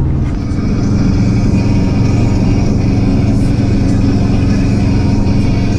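Car interior noise at highway speed: a steady drone of engine and tyre noise, its low engine tone shifting slightly about half a second in and then holding steady.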